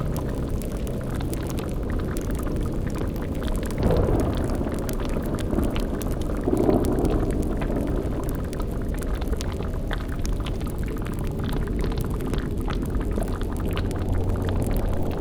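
Layered spooky ambience: a cauldron bubbling and a fire crackling over a low steady drone, with louder gurgling surges about four and seven seconds in.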